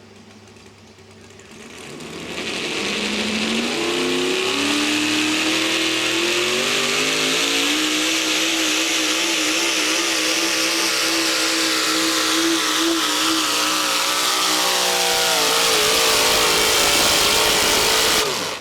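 Modified 4x4 pulling truck engine at full throttle hauling a weight-transfer sled: it winds up in pitch over the first few seconds, holds high and steady, then drops in pitch as the engine bogs under the sled's growing load. The sound cuts off suddenly near the end.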